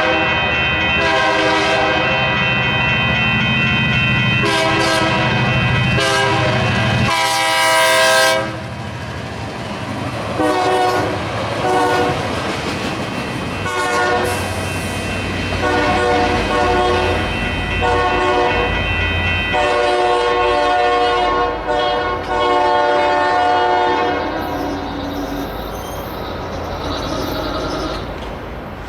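Diesel locomotive's air horn sounding a long series of blasts, some long and some short, over the rumble of the engine and the clatter of rolling train wheels. The horn is loudest about eight seconds in, and the sound fades toward the end as the train moves away.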